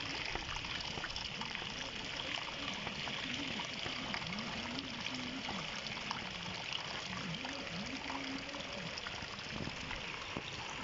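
Heavy rain falling steadily on wet ground and puddles, a dense even hiss with many small drop ticks.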